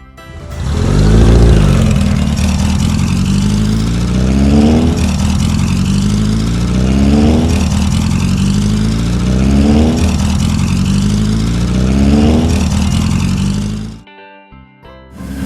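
Cartoon vehicle engine sound effect revving up again and again, each rise in pitch dropping back and climbing anew about every two and a half seconds, like shifting up through gears. It cuts off suddenly near the end.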